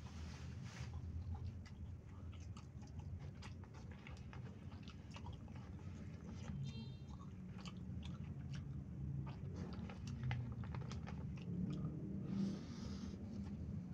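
Close-miked chewing of a mouthful of yellow rice eaten by hand, with many small wet clicks and smacks, and a louder, crunchier bite near the end.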